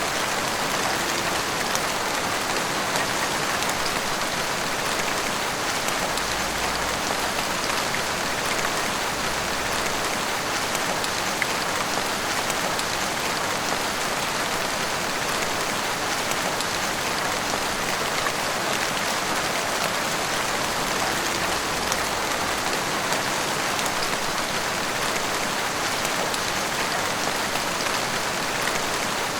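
Heavy rain pouring steadily onto roofs and the street, an even hiss flecked with the ticks of individual drops.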